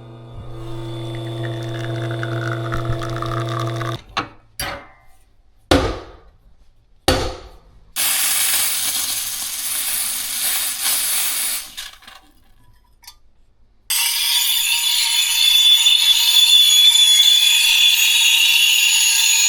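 Coffee being made: an appliance motor hums with a falling whine for about four seconds, then come four sharp knocks, then two long spells of hissing, the second one louder.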